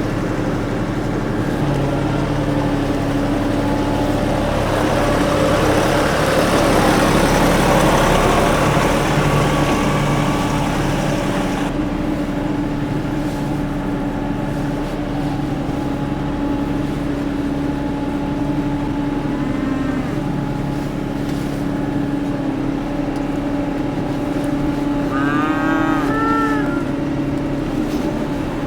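Tractor engine running steadily under load while moving a round hay bale, growing louder for several seconds in the first half. Cattle moo near the end.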